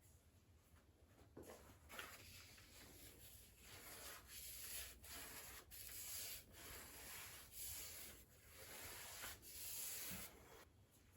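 Faint scrubbing or rubbing on a hard surface: a run of hissy back-and-forth strokes at about one a second, starting about a second and a half in and stopping just before the end.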